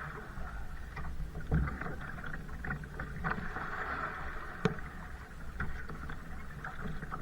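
Kayak on the water: paddle strokes splashing and water trickling and lapping against the hull over a low rumble, with scattered small clicks and one sharp knock a little past halfway.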